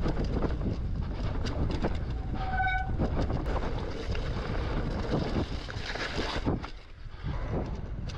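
Wind rumbling on the microphone and the electric fat bike rattling and knocking over rough ground. About two and a half seconds in comes a brief high squeal from the squeaky disc brakes.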